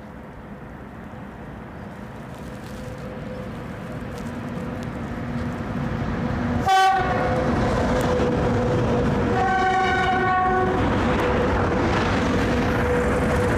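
A freight train hauled by two VL80S electric locomotives approaches, its rumble growing louder, then holding steady. The locomotive sounds its horn twice: a short blast about halfway through, then a longer one of about a second and a half a few seconds later.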